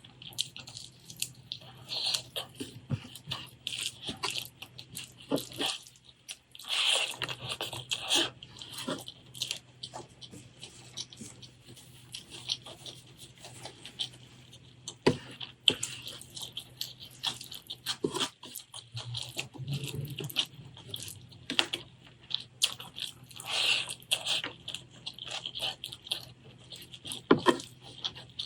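Close-miked eating: irregular wet chewing and mouth clicks, with louder stretches of crunchier chewing about seven and twenty-three seconds in.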